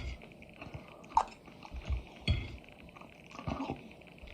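A person chewing chicken close to the microphone, with irregular wet smacks and bites.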